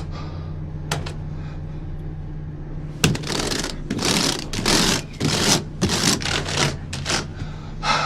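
Elevator floor buttons pressed one after another in quick succession, a rapid run of clicks over the last five seconds, over the steady low hum of the elevator car.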